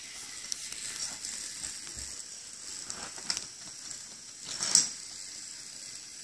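Steady faint hiss with a few light clicks and one short, louder clatter a little past the middle, as toy train track pieces are handled and fitted together.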